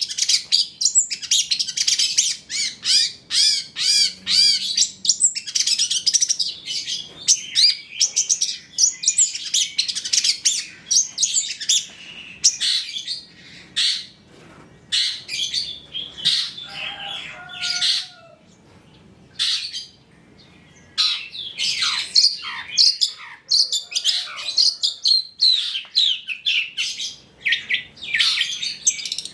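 Long-tailed shrike (cendet) singing a fast, varied song of chirps, trills and chattering phrases in the bird's mimicking style, with a quieter spell a little past two thirds of the way through.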